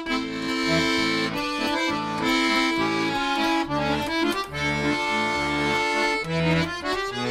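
Accordion playing the instrumental introduction to a Russian song: a sustained melody over a pulsing bass-and-chord accompaniment, with a run rising in pitch near the end.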